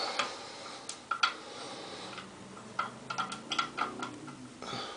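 Small plastic clicks and taps, irregular and scattered, with a quick run of them a little after the middle, as a thin plastic shim is slid into the toilet tank's handle hole beside the handle.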